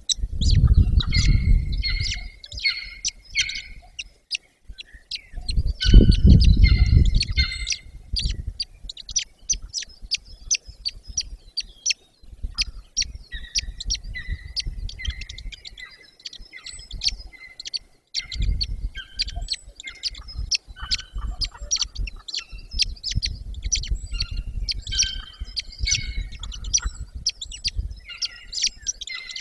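Rapid, high-pitched bird chirping: many short notes a second, keeping on throughout. Two loud low rumbles break in, one right at the start and one about six seconds in.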